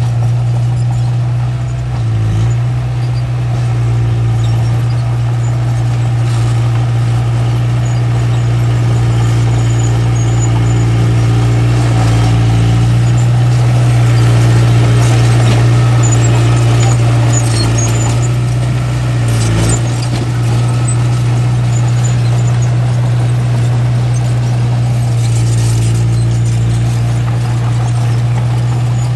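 Small bulldozer's diesel engine running steadily at working load, with occasional faint high squeaks, likely from the tracks. The engine note dips briefly twice.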